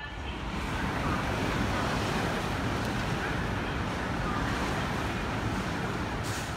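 Eurostar Class 374 high-speed electric train passing at speed: a steady rushing noise that begins to fade near the end.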